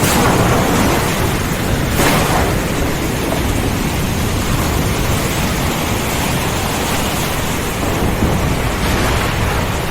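Thunderstorm: heavy rain falling steadily under a low rumble of thunder, with a brief sharper burst about two seconds in.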